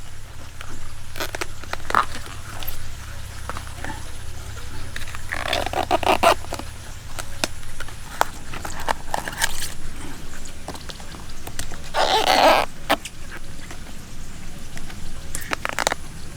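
Banana flower bracts being broken off and peeled by hand: a run of crisp snaps and clicks with rustling, and two longer tearing sounds about six and twelve seconds in.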